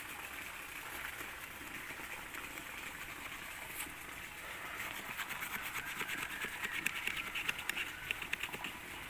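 Small folding wood saw blade of a Victorinox Huntsman Swiss Army knife cutting through a thick jamun branch in quick back-and-forth strokes, a rasping hiss that becomes a more distinct, even rhythm in the second half.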